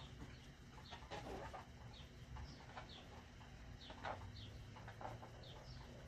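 Faint bird chirps, short high falling notes coming one or two a second, with a couple of brief louder rustles from the balloon being handled about a second in and about four seconds in.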